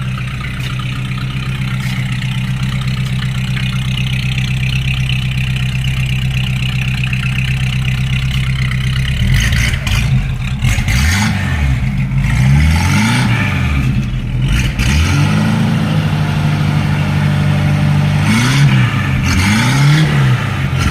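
1951 Packard Patrician 400's straight-eight engine idling steadily, then revved up and down several times from about halfway through, each rev rising and falling back to idle.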